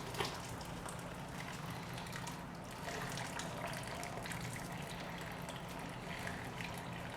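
Hot chicken bone broth being poured from the cooking pot through a colander into a bowl: a steady stream of liquid splashing and trickling, with a light knock just after the start.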